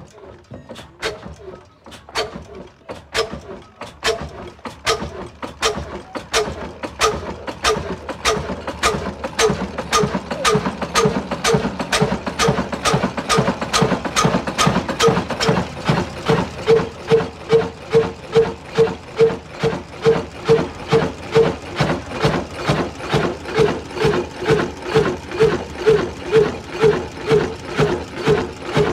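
Heavy old black diesel engine running up after starting: a regular knocking beat that speeds up from about one and a half to about three beats a second as the engine gathers speed, the running sound filling in stronger from about a third of the way in.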